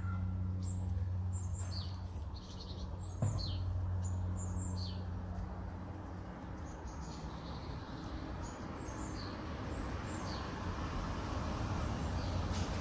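Small birds chirping repeatedly in short high calls over a steady low hum, with one sharp click about three seconds in.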